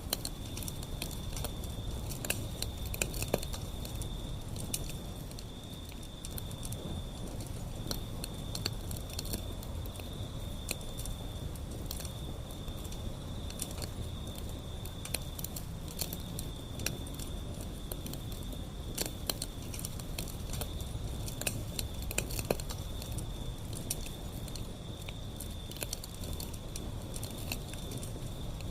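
Wood fire burning, crackling and popping with frequent sharp snaps over a low rumble. A thin, steady high-pitched tone runs underneath.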